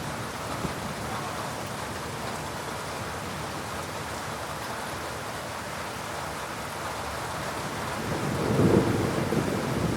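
Steady rain during a thunderstorm, with a roll of thunder starting about eight seconds in as a low rumble that swells toward the end.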